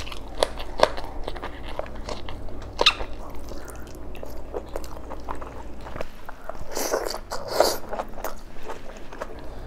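Close-miked eating sounds: biting and chewing on boiled beef oxtail, with many sharp wet mouth clicks and a few louder bursts about seven seconds in.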